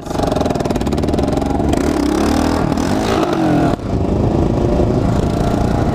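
Kawasaki KLR650's single-cylinder engine running hard under acceleration, with wind rushing over the microphone. The engine note rises and falls about halfway through and dips sharply for a moment a little later.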